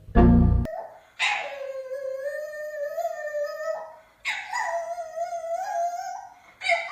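Dog howling in three long, drawn-out, slightly wavering calls with short breaks between them, after a brief loud sound at the very start.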